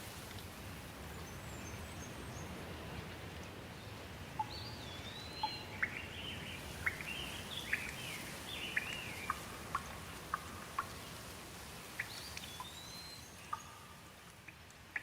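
Steady rain with birds calling over it: a string of short chirps and whistled rising-and-falling notes starts about four seconds in and continues, more sparsely, to the end.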